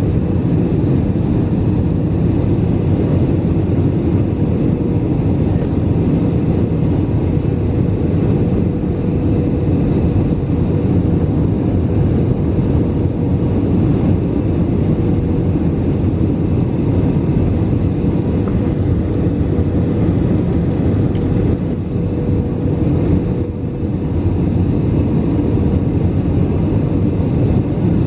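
Steady cabin noise inside an Airbus A319 airliner, the jet engines and rushing air blending into a loud, even rumble with a faint steady hum; the level dips briefly a little after two-thirds of the way through.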